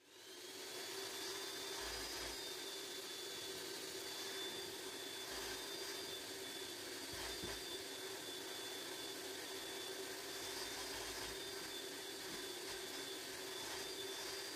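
Vacuum cleaner running steadily, its motor and airflow making an even rushing noise with a constant whine. It starts up out of silence at the very beginning.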